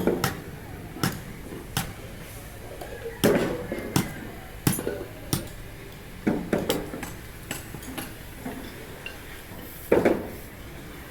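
Irregular sharp metal knocks and clinks, hand tools striking scrap compressor parts, with a few heavier blows.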